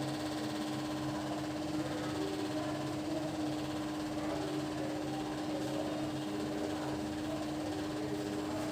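A steady mechanical hum with one constant tone over a low, even drone.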